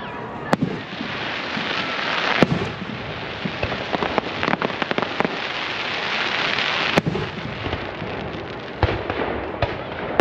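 Fireworks display: several sharp booms of aerial shells bursting, over a dense crackle that swells in the middle and then thins out.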